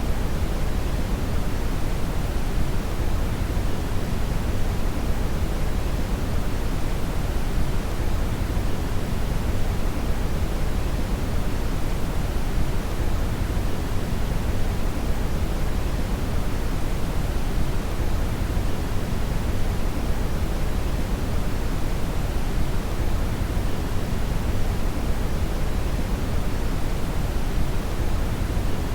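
Steady brown noise (red noise): an even, deep hiss with most of its energy in the low end, unchanging throughout.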